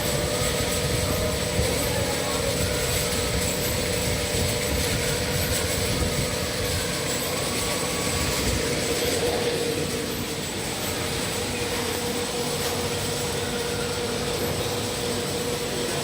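Vial washing machine running: a steady mechanical noise with a constant hum and a faint high whine.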